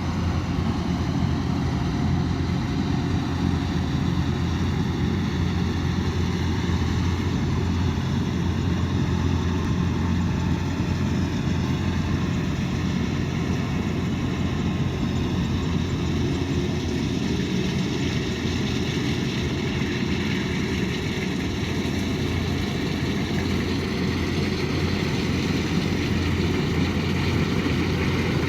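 Kubota DC108X combine harvester's diesel engine and threshing machinery running steadily at a constant working speed, a loud even hum with mechanical noise.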